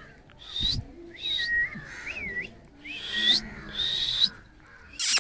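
A parrot giving a run of about five short calls, several gliding up and down in pitch, with a loud harsh burst near the end.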